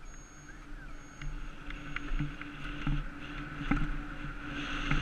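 Muffled ride noise of an electric bike heard through a GoPro's waterproof housing: a steady motor hum with scattered rattles and clicks, and a faint high beep switching on and off about once a second. The noise grows louder near the end.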